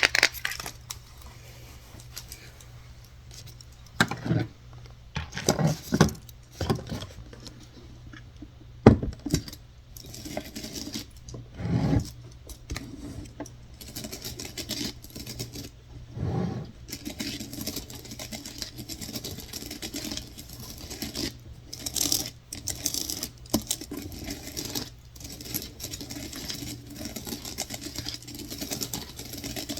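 Fingers and nails tapping and scratching on small hard objects: scattered separate taps and clicks, then a denser run of quick tapping and scratching from about halfway through.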